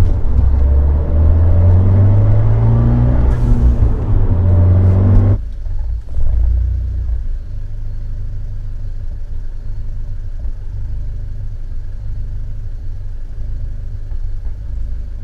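Fiat 124 Spider's 1.4-litre MultiAir turbo four-cylinder idling roughly, its pitch wavering up and down with a cylinder 4 misfire at idle, then cutting off about five seconds in. A quieter, steady low rumble continues after it.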